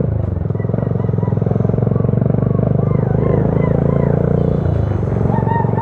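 Motorcycle engine running steadily while riding, heard from on the bike. Engine speed dips briefly about five seconds in, then picks up again.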